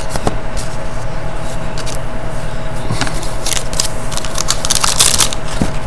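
Trading cards being handled: short scrapes and crackles of card stock and pack wrapper, busiest about three and a half to five seconds in, over a steady background hum.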